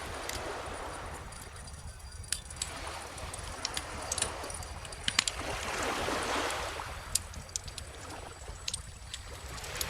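Bonfire crackling with scattered sharp pops, over calm ocean waves washing in and out. The wave wash is loudest about six seconds in, and another swells near the end.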